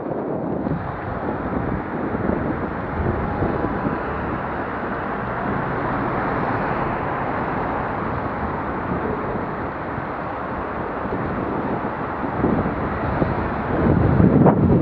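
Steady road noise of vehicles driving, louder near the end.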